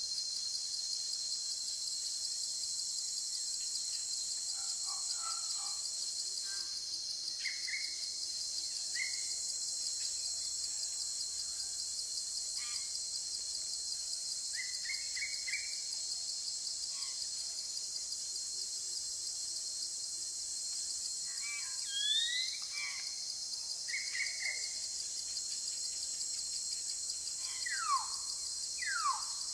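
Steady high-pitched drone of insects, with a constant shrill tone, under scattered short bird chirps and whistles; near the end come two sharply falling whistled calls.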